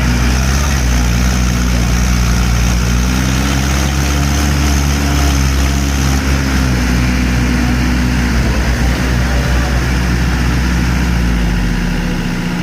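Mahindra tractor's diesel engine running loudly under load, its pitch rising a few seconds in and easing back, then dropping off near the end.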